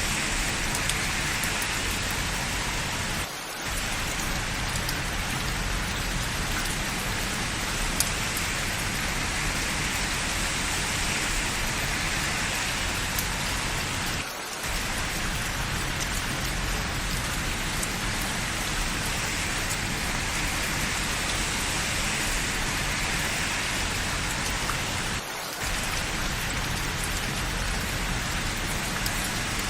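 Steady rain falling on hard surfaces, an even hiss that briefly dips three times, about eleven seconds apart.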